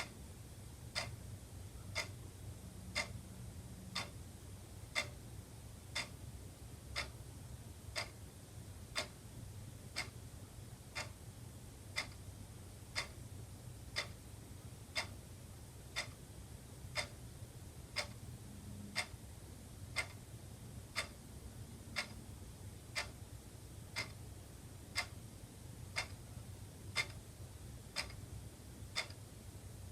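Wall clock ticking steadily, one sharp tick a second, over a faint low hum.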